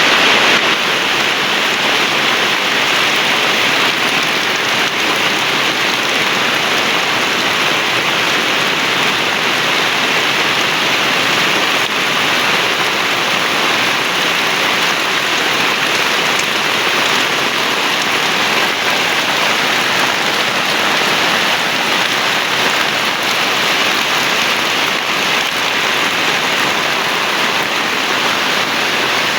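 Heavy rain falling steadily: a loud, even hiss that hardly changes.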